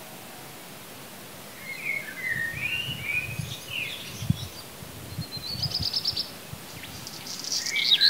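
Songbirds calling over a steady hiss, starting about two seconds in: short slurred whistles, then a fast trill.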